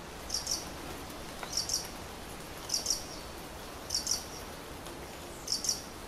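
A small bird calling: short, high-pitched double chirps repeated about once a second, over a steady background hiss.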